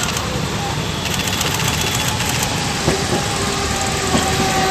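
Steady vehicle engine noise under a constant hiss, with faint clicking about a second in.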